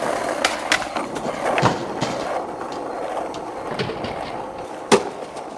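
Skateboard rolling: the wheels run with a steady grinding rumble over the ground, a few light clicks come early on, and one sharp, loud clack of the board comes near the end.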